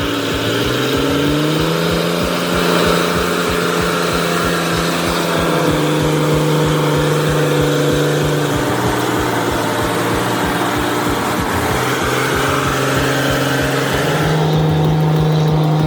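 Heavy truck's diesel engine working hard under load, its note climbing near the start, dropping about eight seconds in and climbing again near the end as it moves through its gears.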